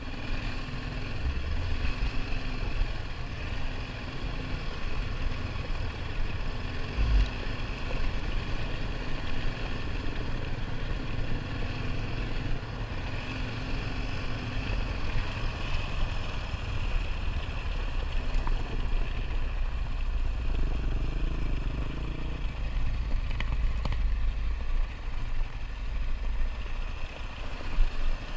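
ATV engine running steadily under way on a dirt trail, with a heavy low rumble and a faint steady engine hum.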